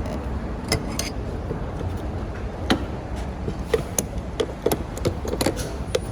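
Lexus IS300's 2JZ-GE straight-six engine running at a steady low rumble while it warms up after a cold start, loud for a stock car. Sharp clicks or taps come through it, most of them in the second half.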